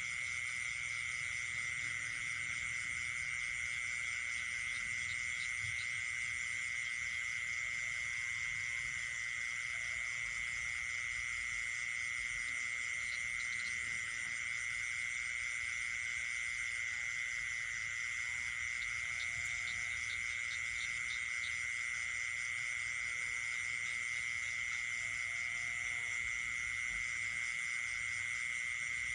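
Night chorus of frogs and insects: a continuous high trill holding one pitch, with more high insect buzzing above it and a few faint, short, lower calls scattered through.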